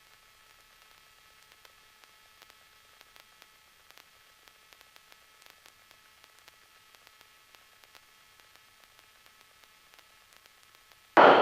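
Faint, steady static hiss with a few thin, steady high tones and scattered light ticks, the line noise of an aircraft headset intercom feed with nobody talking; no engine sound comes through.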